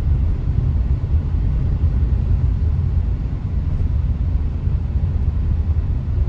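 Steady low rumble of a car on the move, heard from inside the cabin: engine and road noise with no distinct events.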